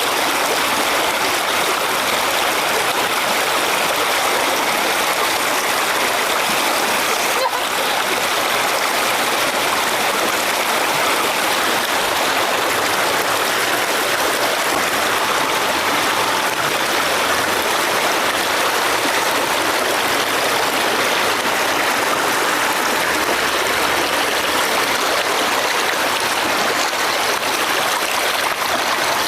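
Fast river current rushing steadily, a strong flow of water.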